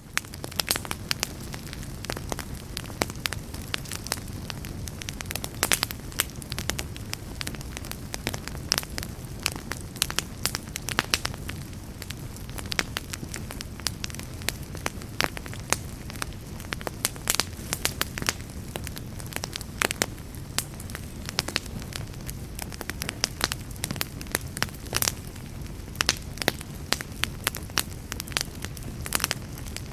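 Fireplace fire crackling, with frequent irregular sharp pops and snaps over a steady low rumble of flame.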